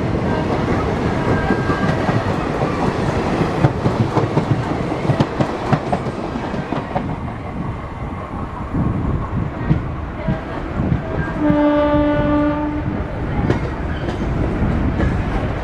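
Steady, loud rumbling vehicle noise, with one horn blast of about a second and a half near the end.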